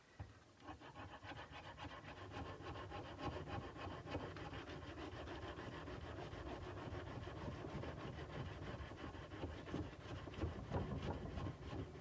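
Sandpaper rubbed by hand back and forth along a steel kukri blade in quick, steady strokes. The strokes start just after the beginning and stop at the end.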